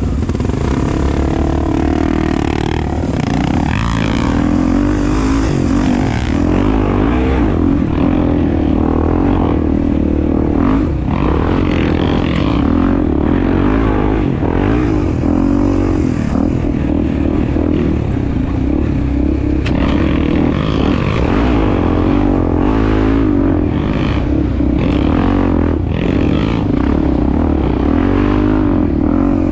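Honda Tornado 250's single-cylinder four-stroke engine running while ridden off-road, its pitch wavering up and down with the throttle, with scattered knocks and clatter.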